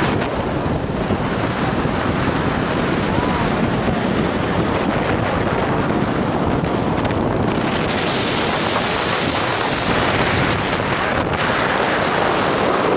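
Strong gale-force mountain wind buffeting the microphone, a loud steady rushing roar that grows harsher and brighter about seven seconds in.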